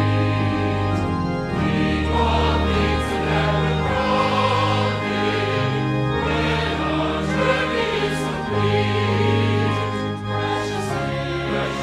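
Choir singing church music with accompaniment, in held chords that change every second or two over sustained low notes.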